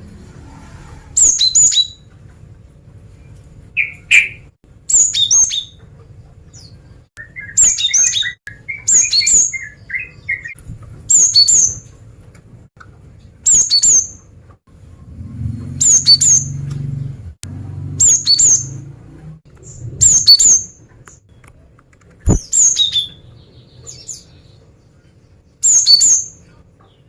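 Female cinereous tit (gelatik batu) calling: short, sharp, high-pitched calls repeated about a dozen times, one every two seconds or so. It is the female's call that draws males and sets them singing.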